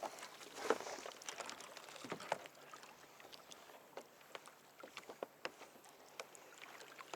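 Water lapping and splashing against a fishing kayak, with scattered small irregular splashes and knocks, the loudest about a second in.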